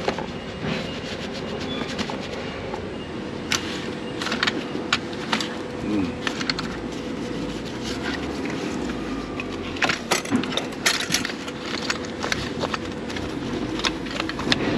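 Semi truck running at idle, a steady hum, with scattered clicks and knocks of equipment being handled during a walk-around check.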